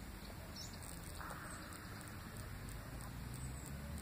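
Faint outdoor ambience: a few short, high bird chirps and ticks over a low steady rumble.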